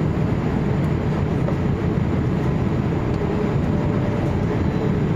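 Steady low rumble of a Boeing 787 airliner heard from inside the cabin: engine and airflow noise, even in level throughout.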